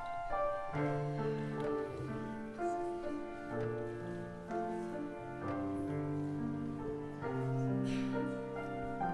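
Instrumental music: a slow tune of held notes sounded together in chords over lower sustained bass notes.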